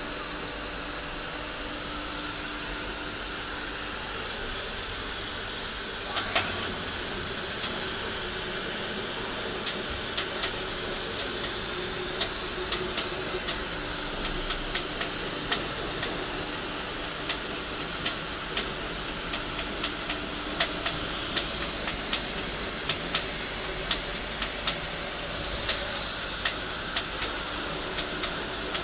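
Takisawa TC-30 CNC lathe running: a steady hiss with a thin high whine. From about six seconds in come a knock and then a string of short sharp clicks, one or two a second.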